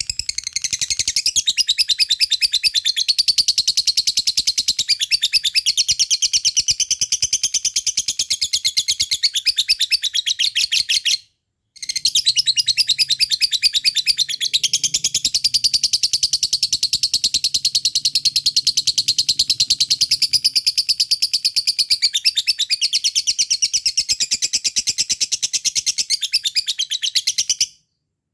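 A fighter lovebird's long 'ngekek' song: a high chattering trill of fast repeated notes. It breaks off briefly about eleven seconds in, then runs on and stops shortly before the end.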